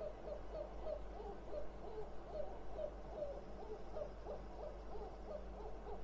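A bird calling with short, low, hoot-like notes, about three a second in a steady run, some notes rising and falling in pitch.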